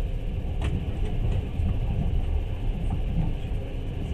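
Passenger train running, a steady low rumble of wheels on the rails heard from inside the carriage, with a sharp click about half a second in.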